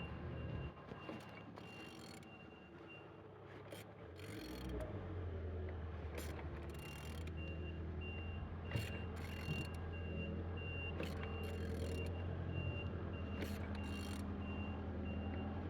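A vehicle with a reversing alarm: a repeating high beep sounds over a steady low engine hum that sets in about four and a half seconds in, with scattered clicks and knocks.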